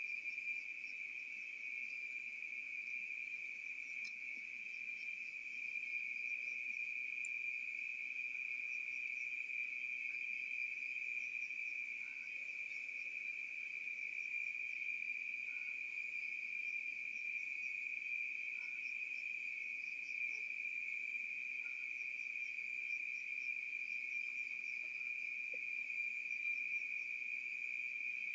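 A chorus of crickets, a steady high-pitched drone that never breaks.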